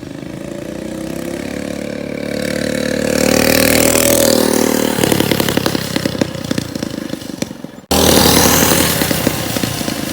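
196cc Honda-clone single-cylinder engine on a mini bike running through its new aftermarket exhaust. The note rises steadily in pitch for the first few seconds as it picks up speed, then turns choppier and pulsing. After a sudden break near eight seconds it comes back loud.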